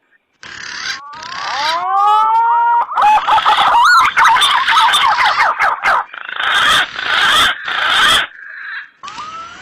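Green pigeons (punai) calling: many overlapping whistled notes that rise and fall, forming a dense warbling chorus, with patches of hiss. The sound starts after a moment of silence at the very beginning.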